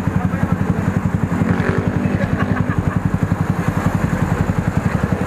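Motorcycle engine idling steadily through an aftermarket muffler, a fast, even pulse.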